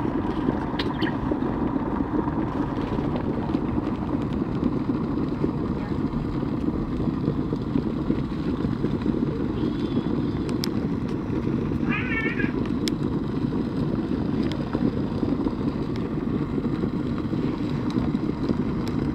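Vitek ceramic electric kettle heating water with a steady low rumble. About twelve seconds in a cat meows once briefly.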